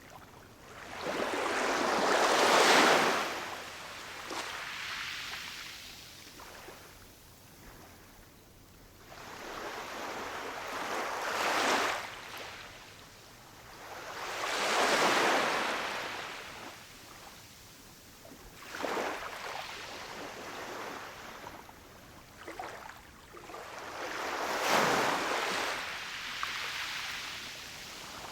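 Ocean waves breaking on a shore: the surf swells up and washes back in long surges, about five waves breaking at uneven intervals of several seconds.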